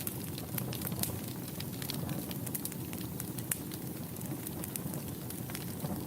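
Wood fire burning in a fireplace: a low steady rush of flame under frequent sharp crackles and pops, several a second at uneven intervals.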